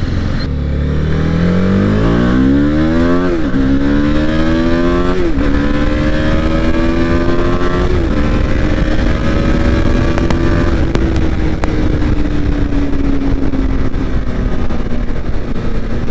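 Motorcycle accelerating up through the gears: the engine pitch climbs and drops back at three upshifts in the first eight seconds, then holds steady at cruising speed and eases down slightly, with wind noise over the microphone.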